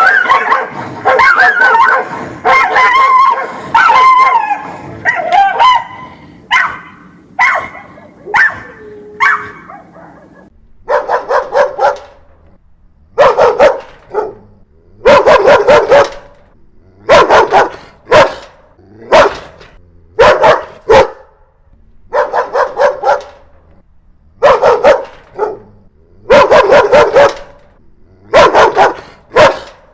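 Angry dogs barking. For the first ten seconds the barks and yelps crowd over one another; after that the barking comes in short volleys of several quick barks, with brief pauses between them.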